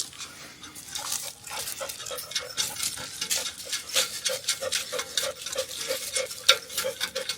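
Hand tools working on metal: a quick run of light metallic clicks and clinks, about three a second.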